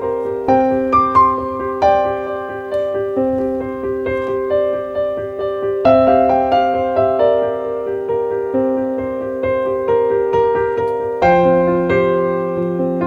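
Soft piano background music, notes struck one after another over held chords.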